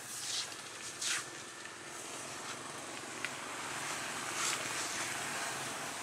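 Birds calling over a steady rushing background: three short, high calls that fall in pitch, one near the start, one about a second in and one past the middle.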